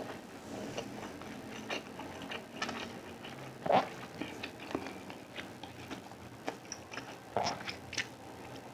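A person chewing and biting food close to the microphone: irregular mouth clicks and short bites, with the loudest bites about four seconds in and again near the end.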